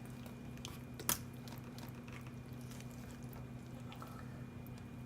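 Knife cutting through raw chicken ribs: faint wet squishing and small clicks, with one sharp crack about a second in. A steady low hum runs underneath.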